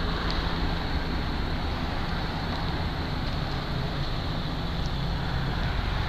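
Helicopter circling overhead: a steady drone of rotor and engine with a low hum, unchanging throughout.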